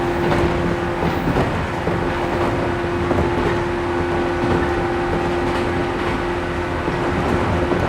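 Cabin running sound of a resistance-controlled JNR 113 series 1500 subseries electric train under way: a steady rumble of wheels on rail with a steady hum underneath.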